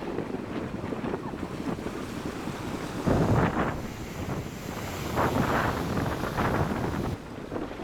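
Storm-driven sea waves breaking and washing against rocks, with wind buffeting the microphone. Heavier breakers surge about three seconds in and again around five to six seconds.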